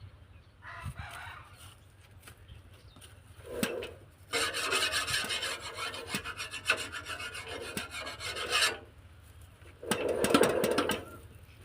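Rasping, scraping noise lasting about four seconds in the middle, with a few short duller sounds before and after it.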